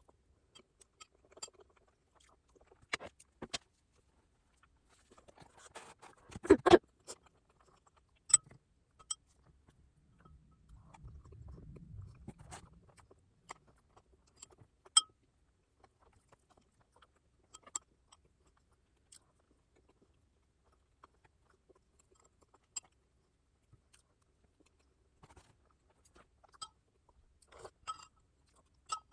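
Close-miked eating sounds: sporadic mouth noises and sharp clicks and taps, with long quiet gaps and a louder cluster about six and a half seconds in.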